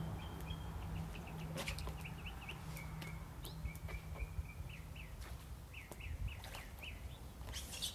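Small birds chirping and twittering, quick high notes repeated in runs, over a low steady rumble, with a few short knocks, the loudest near the end.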